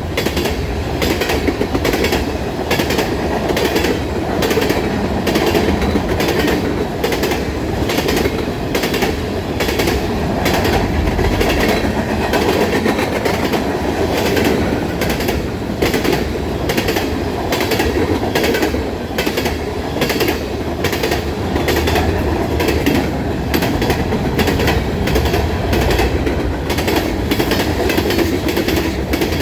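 A train rolling past, its wheels clicking over rail joints in a steady, even rhythm over a constant rumble of the cars.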